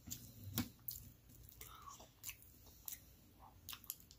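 A person chewing and eating meatloaf, with soft wet mouth smacks and a few short clicks scattered through.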